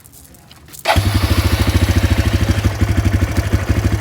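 ATV engine started on its electric push-button starter: a brief crank about a second in, then it catches and idles with a rapid, even beat.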